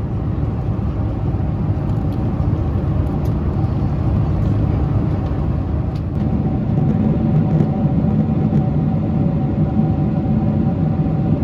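Steady cabin noise inside a Boeing 747-400 climbing toward cruise: the rush of airflow and the drone of its engines, with a faint steady hum through the middle. It grows slightly louder about six seconds in.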